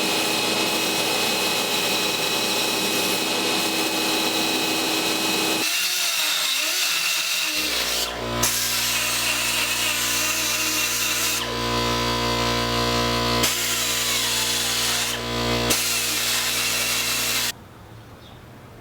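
A power tool running continuously, its sound shifting several times as the load changes, then cutting off suddenly near the end.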